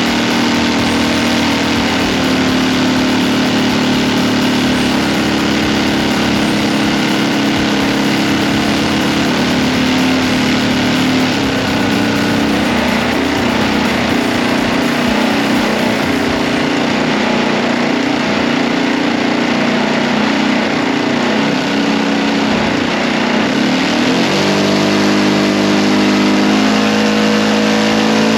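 O.S. GF40 four-stroke gasoline model aircraft engine running steadily during tuning, then throttled up about 24 seconds in, its pitch rising, dipping and rising again.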